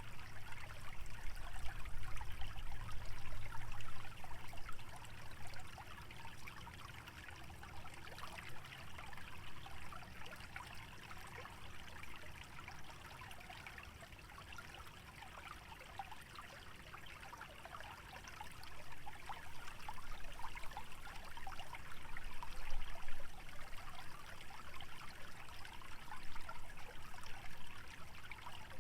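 Small stream trickling through a wetland: a steady babble of running water. A low rumble swells under it in the first few seconds and again about two-thirds of the way through.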